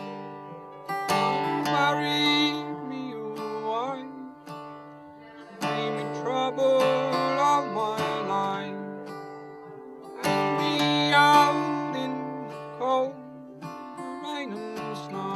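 Acoustic guitar playing a folk song, with a man's singing voice over it in three phrases.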